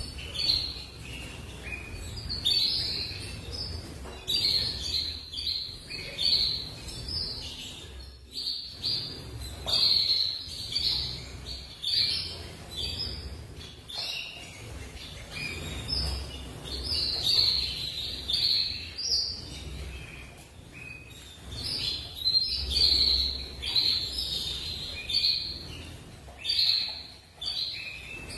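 Small birds chirping steadily, with many short high chirps coming in quick runs and several birds calling over one another.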